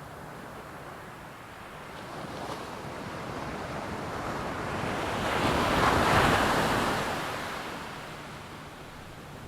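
Boeing-Stearman PT-17 biplane's radial engine passing by: a rushing drone that swells over a few seconds, peaks past the middle, then fades away.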